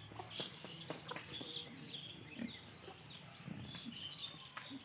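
Barnyard fowl clucking amid many short, high bird chirps, with scattered light clicks and a few short low calls.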